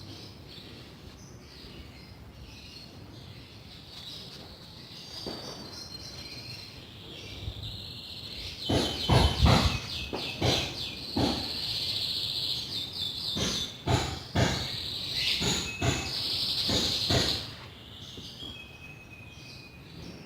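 Birds chirping in the background, with a run of irregular knocks and clatters through the middle that stops a few seconds before the end.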